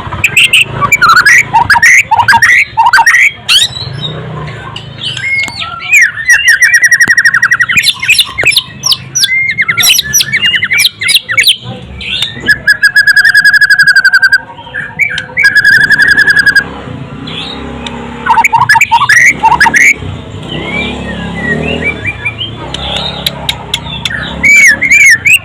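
White-rumped shama (murai batu) singing a loud, varied song of quick whistled notes and glides, with two long, fast rattling trills, one about six seconds in and another from about twelve to sixteen seconds in.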